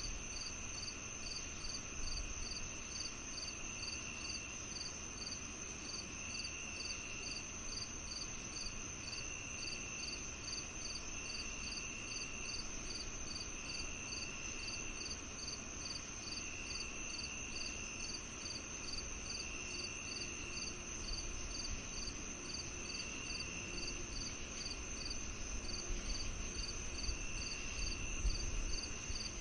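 Crickets and other insects calling together: a steady high trill, a rapid even chirp a few times a second, and a lower buzz that starts and stops every couple of seconds.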